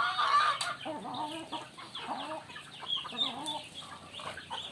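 Chickens clucking, with a cluster of loud calls in the first half second and many short high calls throughout.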